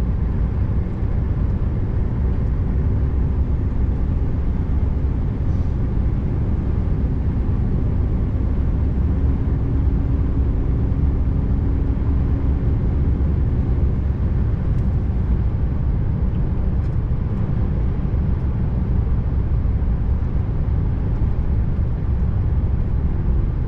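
Scania R590 truck's V8 diesel running steadily under way, a continuous low rumble mixed with road noise.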